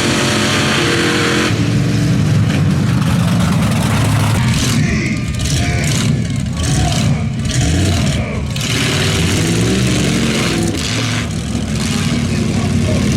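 Monster truck engine running loud, its pitch rising and falling as it is revved.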